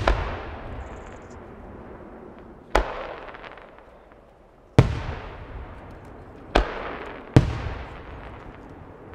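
Japanese aerial firework shells of size 4 and size 5 bursting overhead. Five sharp booms come roughly two seconds apart, the last two close together, and each trails off in a long fading echo.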